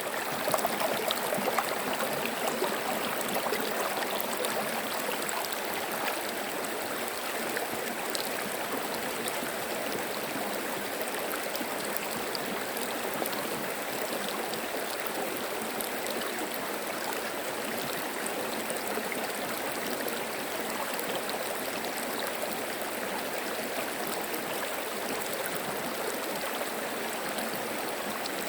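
Clear stream water flowing gently with a steady babble, a little louder in the first two or three seconds.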